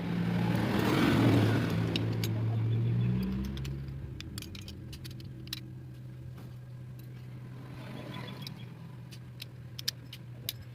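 An engine running steadily, louder for the first three or so seconds and then settling to a lower, even hum, with light metallic clicks and taps scattered over it.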